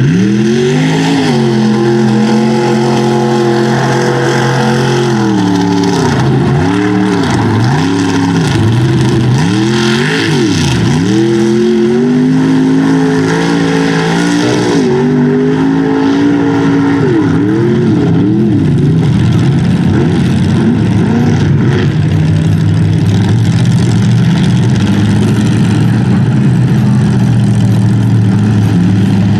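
Big-block V8 mud truck engine revving hard again and again, its pitch climbing and dropping in quick swings, then settling into a steadier, lower run for the last third.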